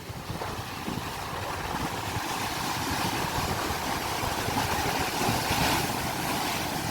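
Sea waves washing in, with wind rumbling on the microphone: a steady noisy surge that swells a little.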